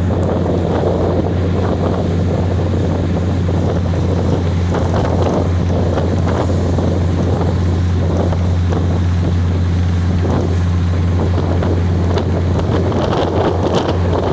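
Passenger train in motion: a steady low engine drone with wind rushing over the microphone, and a few sharp clicks near the end.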